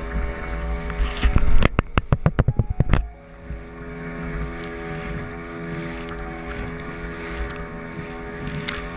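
Boat engine running steadily with wind on the microphone, broken about one and a half seconds in by a rapid series of a dozen or so sharp knocks lasting about a second and a half.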